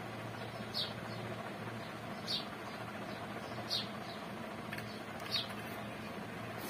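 A bird repeating a short, high, falling chirp about every one and a half seconds, over a steady low hum.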